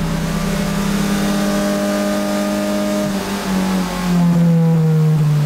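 Turbocharged Honda Civic VTi four-cylinder engine held at raised revs, steady for about three seconds, then dipping briefly and running louder as the revs slowly fall near the end.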